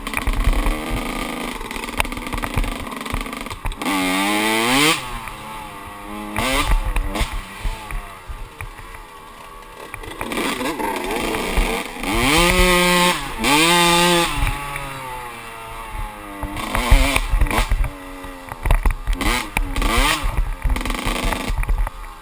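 Kawasaki KX125 two-stroke dirt bike engine being ridden hard, its pitch rising and falling with the throttle: a steep climb about four seconds in and a high held rev around twelve to fourteen seconds in. Wind buffets the microphone throughout.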